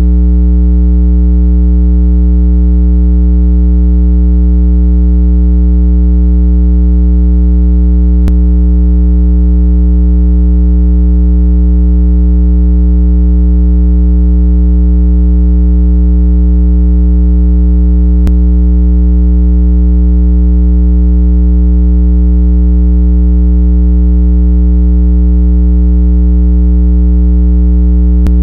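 A steady, loud, low electronic water-eject tone, the 165 Hz frequency played to vibrate water out of earbud and phone speakers. It is one unchanging buzzy tone with many overtones, with a faint tick about every ten seconds.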